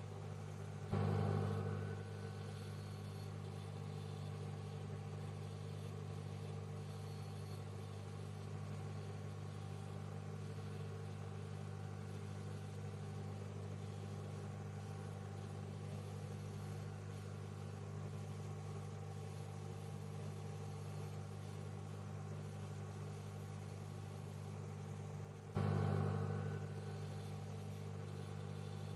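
Microwave oven running with a steady low hum, briefly swelling louder about a second in and again near the end.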